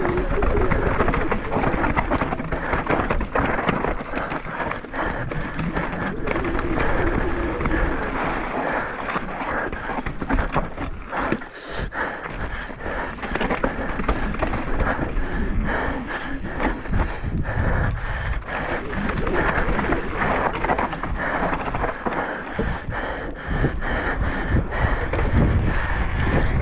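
Mountain bike descending rough, rocky ground at speed: tyres crunching over dirt and stones and the bike rattling, with constant small knocks.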